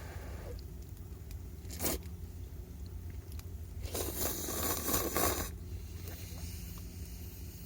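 A short scrape about two seconds in, then a longer rough scraping sound lasting about a second and a half.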